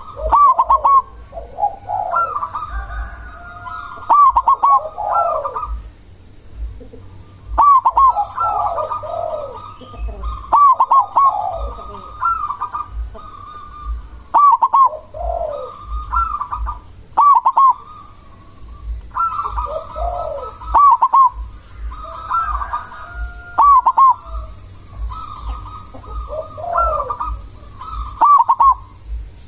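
Zebra dove (perkutut) cooing over and over in short rolling phrases, one every second or two.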